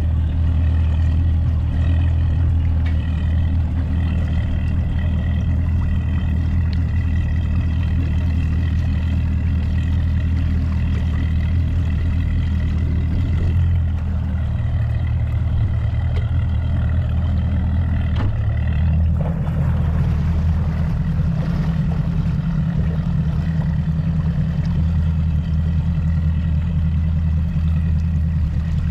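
Mercury Pro XS 200 outboard motor running with the boat under way, a steady low drone with a faint high whine. About two-thirds of the way through, the engine note changes and settles into a new steady pitch.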